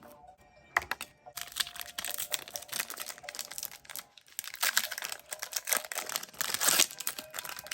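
Foil wrapper of a Pokémon card booster pack crinkling and tearing as it is opened and handled. It starts about a second in and goes on in irregular crackles.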